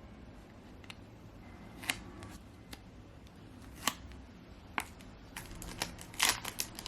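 Hands working with sticky annotation tabs: a series of small, sharp clicks and light handling noises, spaced irregularly and coming faster near the end.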